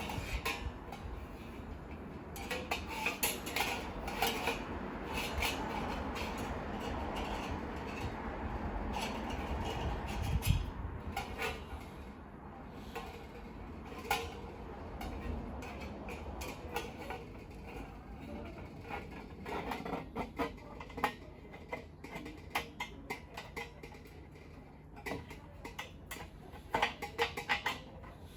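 Metal clinking and clanking as steel fire-pit parts and trivets are handled and set against one another, in irregular runs of short knocks.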